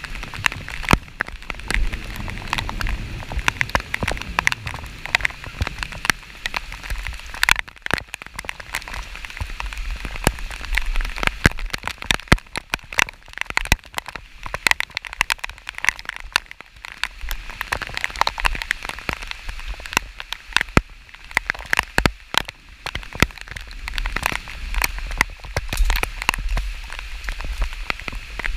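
Steady rain falling, with dense, irregular drops ticking close to the microphone over a constant hiss, and a low rumble underneath.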